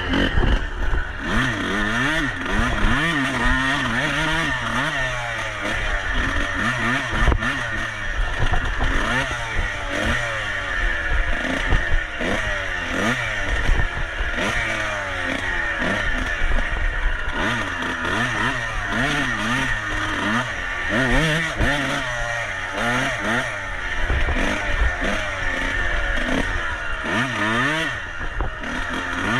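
Dirt bike engine revving up and dropping back over and over, about once a second, as it accelerates and shifts, with some clatter underneath.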